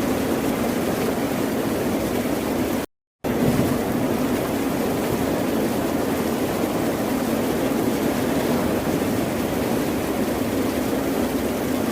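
Steady, even wash of ocean surf, with no speech. About three seconds in, it cuts out to silence for a fraction of a second.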